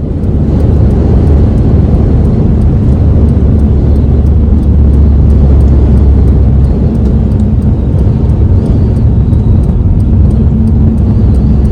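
Steady, loud rumble of a car driving at speed, with road and engine noise.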